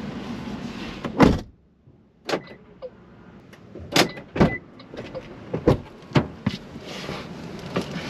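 Inside a car: the air conditioning blows steadily until a loud thump about a second in, after which it is much quieter. A string of scattered knocks and clicks follows, doors and things being handled in the car.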